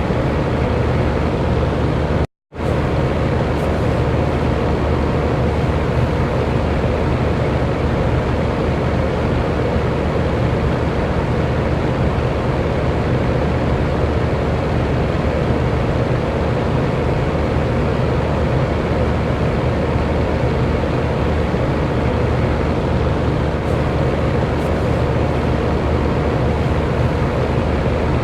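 Electric fan running steadily, an even rush of air with a faint motor hum. The sound cuts out completely for a moment about two seconds in.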